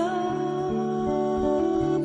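Slow ballad: a singer holds one long note over gently plucked acoustic guitar, with the next sung word coming in near the end.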